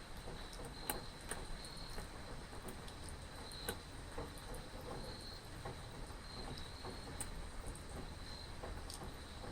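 Steady rain with scattered drops tapping, and an insect chirping in short high trills that recur every second or so.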